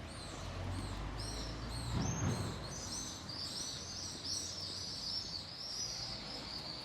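Small birds chirping, a rapid run of short high chirps that grows denser from about three seconds in, over a low steady rumble of town background that fades away; a brief louder noise about two seconds in.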